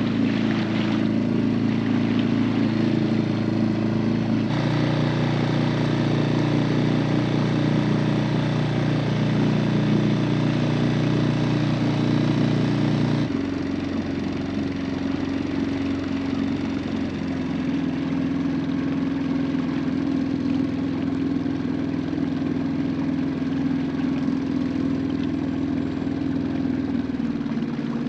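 Boat engine running steadily under way. Its note changes abruptly about four seconds in and again around thirteen seconds in, as the engine speed is changed.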